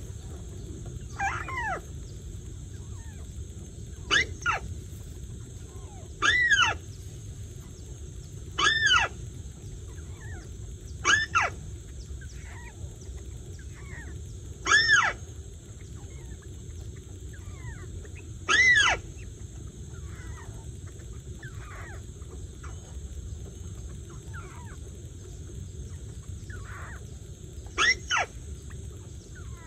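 A bird calling over and over: short calls that rise and fall in pitch, with several overtones, about every two to four seconds, then a long pause before one more call near the end. A faint steady hiss runs underneath.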